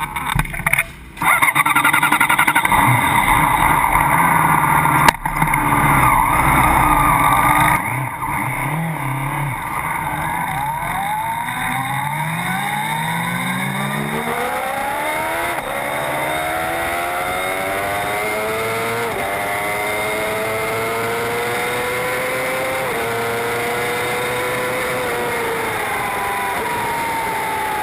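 A high-revving racing engine accelerating through the gears, its pitch climbing steadily and dropping a step at each upshift, several times over. The first several seconds are louder and more jumbled, with engine noise and what may be tyre noise.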